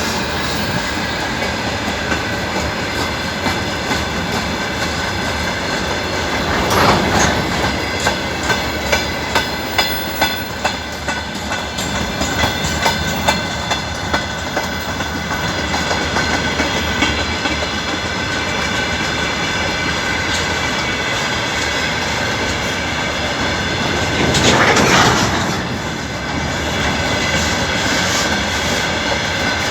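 Freight train wagons rolling past, wheels clacking over rail joints in a quick run partway through, with a steady high ringing from the wheels and rails and a louder surge near the end.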